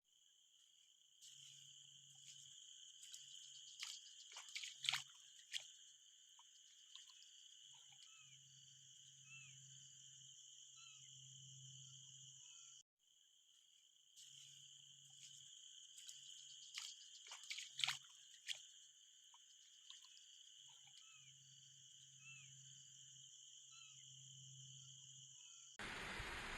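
Faint chorus of insects and frogs: a steady high-pitched insect drone, with frogs croaking in low pulsed stretches of a second or two and a few sharp clicks. The pattern breaks off briefly halfway and then seems to run again, and near the end it gives way to a steady hiss.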